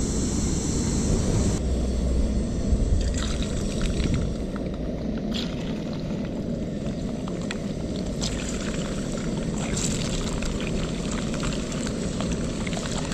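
Hot rendered pork fat crackling and popping in a pan, with sharp irregular pops over a steady low rushing noise.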